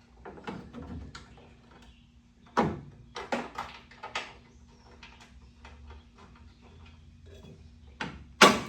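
Scattered clinks and knocks of hand tools and small metal parts being handled while two 10 mm bolts are fitted. The sharpest knock comes near the end, over a faint steady hum.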